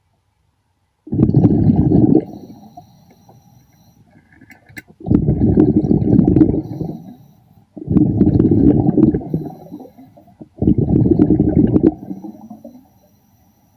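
Underwater, a diver's exhaled air bubbles rush past the microphone in four low, rumbling bursts of a second or two each, one with each breath out through the regulator.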